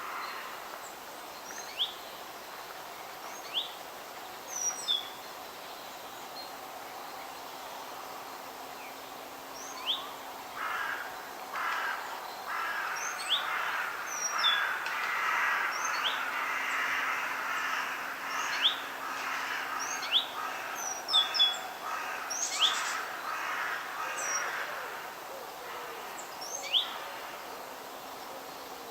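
Wild birds calling in a forest: short, sharp upward chirps and brief whistles every second or two, with a louder, rough chattering call from about ten seconds in that fades out near the end, over a faint steady background hiss.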